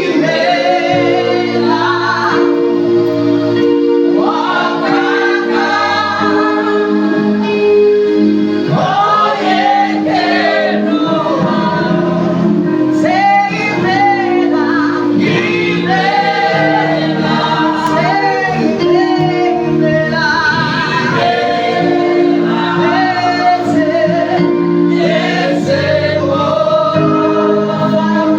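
Gospel praise-and-worship music: a church praise team singing over sustained keyboard chords, with a female lead voice prominent.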